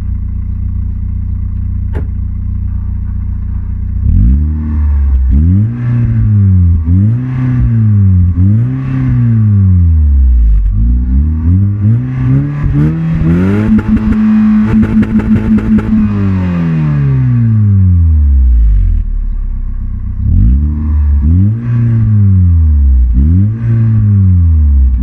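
Opel Astra F 1.4 16V's four-cylinder petrol engine, heard through its exhaust, idling and then revved in a series of short blips. In the middle one longer, higher rev is held, stuttering rapidly for about two seconds before it falls back to idle. Quick blips follow near the end.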